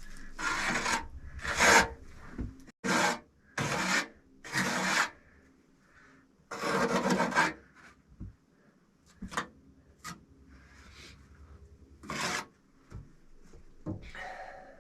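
Rough hand scraping on brick masonry: a run of separate rasping strokes, five or six in the first five seconds, a longer stroke around seven seconds, then a few short knocks and one last scrape about twelve seconds in.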